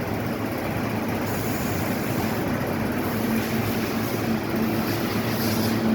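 Heavy machinery running steadily, a low hum under a constant noisy din.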